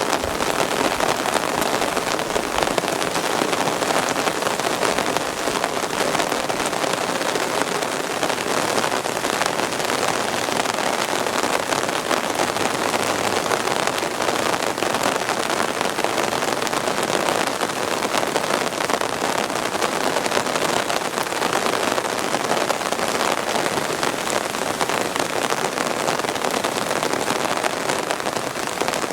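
Steady rain, a dense even hiss of water falling on surfaces that holds level without a break.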